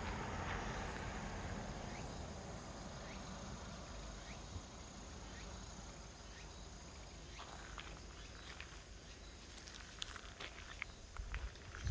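Quiet outdoor ambience with a faint high chirp repeating about twice a second, like an insect. Light clicks and footsteps come in near the end.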